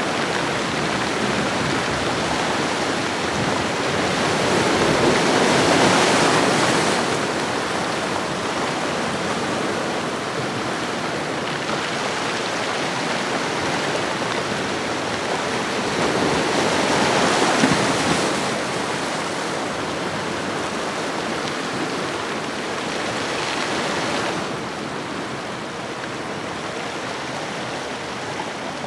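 Ocean waves washing on a shore: a steady rush of surf that swells three times, about 6, 17 and 24 seconds in, and eases off after each.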